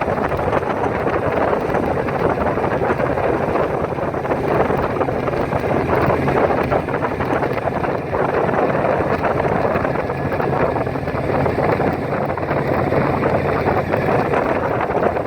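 Steady wind rushing over the microphone of a bike moving along a highway, with a low steady hum underneath.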